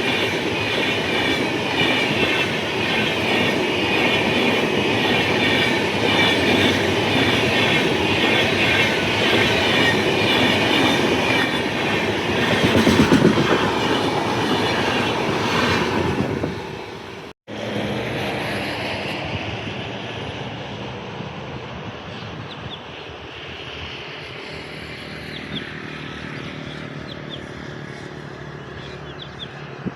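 A train running past close by, its wheels clattering over the rail joints, loudest about 13 seconds in. The noise cuts off abruptly about 17 seconds in and is followed by a quieter train rumble that fades away, with a few faint bird chirps near the end.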